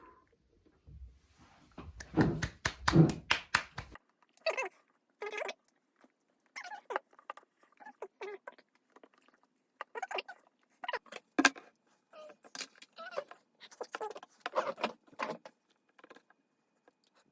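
Handling noise: a quick run of about a dozen sharp knocks, about two seconds in, then scattered clicks and short rustles.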